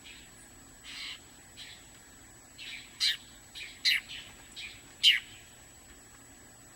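Small songbirds giving a series of short, sharp call notes, about ten over a few seconds, with the loudest three coming roughly a second apart near the middle.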